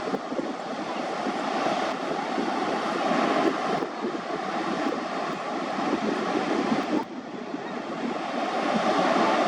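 Ocean surf washing onto a beach: a steady rushing noise that builds up and falls off again, twice in a few seconds, then builds once more.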